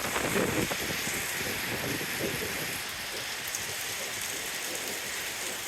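Steady rain falling, an even hiss, slightly heavier in the first couple of seconds.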